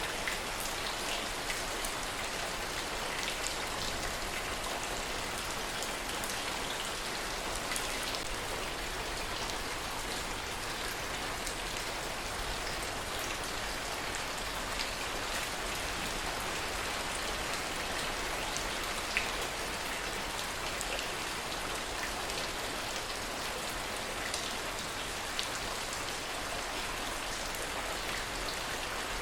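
Steady heavy rain, a continuous even hiss with scattered individual drops ticking through it.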